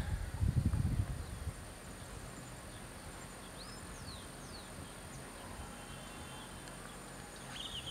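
Faint outdoor background with a few short bird chirps about halfway through and again near the end. A low rumble in the first second and a half drops away.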